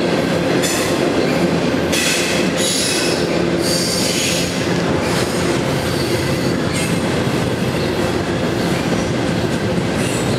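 Double-stack intermodal freight train's well cars rolling past at close range: a steady rumble of wheels on rail, with high-pitched wheel squeal coming and going, strongest from about two to five seconds in.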